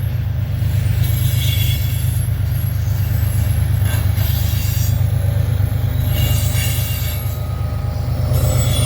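Loaded coal train rolling past with its rear distributed-power diesel locomotive: a steady heavy low rumble, with high-pitched wheel squeal coming and going.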